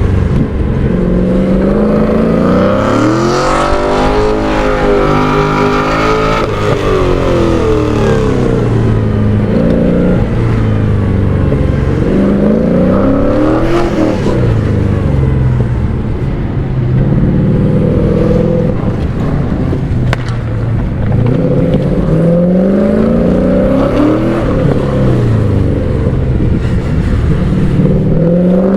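LS-swapped BMW E36's V8 engine revving hard on an autocross run, its pitch climbing under acceleration and falling back again and again as the driver lifts and gets back on the throttle between corners.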